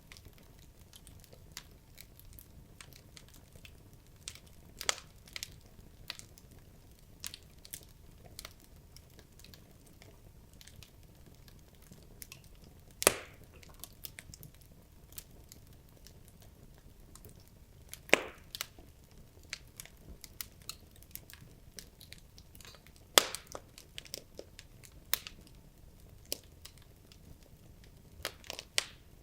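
Wood logs burning in a fireplace, crackling with scattered small snaps. Three sharper, louder pops come about five seconds apart through the middle.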